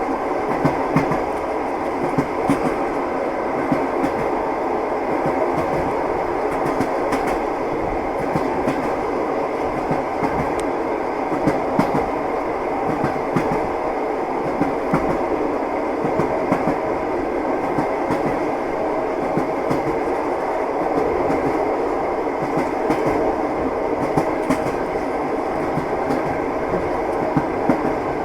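Train wheels clattering along the rails: a steady running rumble broken by scattered sharp knocks.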